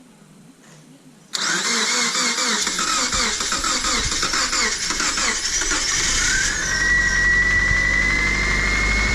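Subaru flat-four engine being cranked by its starter, starting abruptly about a second in. It catches a few seconds later and runs on with a steady high whine and low rumble, a hard start with decarbonising cleaner still in the cylinders.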